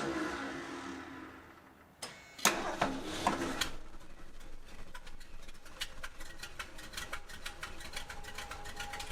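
The 1978 Ford F150's engine dies away, and after a click about two seconds in it is started again with a short loud burst. It then settles into a steady idle with a rapid, even ticking.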